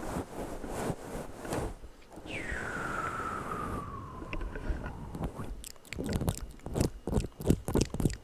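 Close-miked ASMR mouth sounds: wet crackling and smacking, a high tone sliding downward for about two seconds partway through, then a quick run of sharp mouth clicks and pops near the end.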